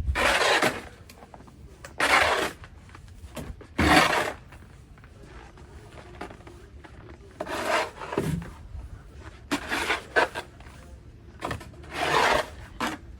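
Snow shovel scraping through snow, about seven short strokes spaced roughly two seconds apart.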